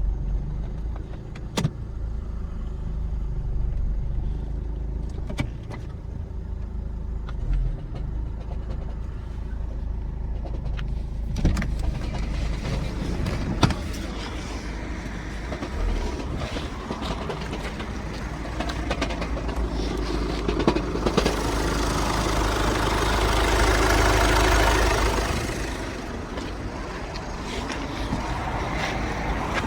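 Volkswagen Passat B6's 2.0 TDI diesel engine running, with irregular sharp knocks. This is the intermittent knocking that the owner cannot identify, which goes away after the engine is switched off and restarted and comes back every couple of days. A louder rushing swell builds and fades about three quarters of the way through.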